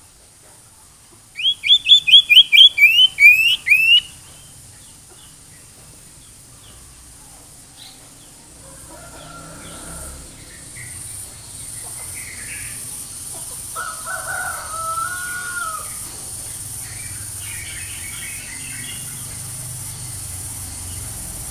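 Sirtu bird lure song: a loud burst of about ten quick rising chirps about a second in, then quieter scattered bird calls and a short warble over a steady high hiss.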